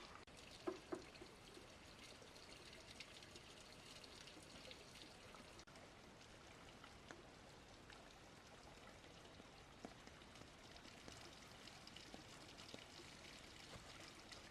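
Near silence: a faint steady hiss with a few small, scattered ticks and knocks.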